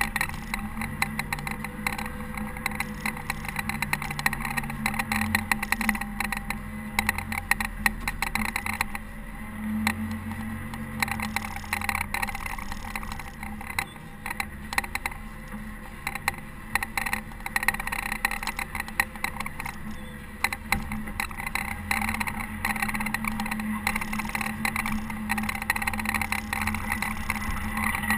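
Caterpillar TH330B telehandler's diesel engine running steadily under load while snowplowing, with its revs rising and falling a little and a dense rattling clatter over it.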